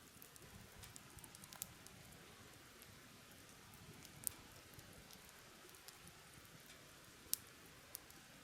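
Near silence broken by a few faint, sharp crackles and pops from a wood campfire, scattered irregularly.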